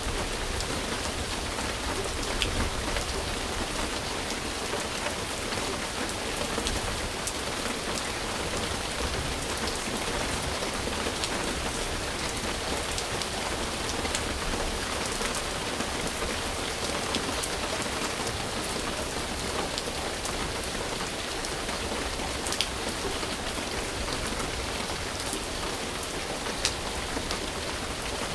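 Steady rain falling on a surface, an even hiss with scattered sharper drops landing close by.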